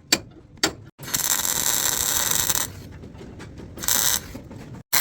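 Car body-shop tool work: two sharp clicks, then a loud rasping noise for about a second and a half, followed by lighter ticking and a shorter rasping burst near the end.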